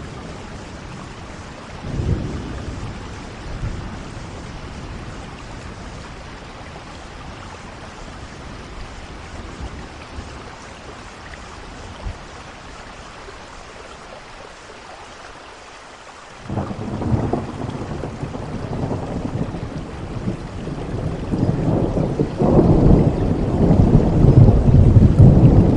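Steady rain with rolling thunder: a short rumble about two seconds in, then a long, low rumble that starts suddenly past the middle and builds to the loudest part near the end.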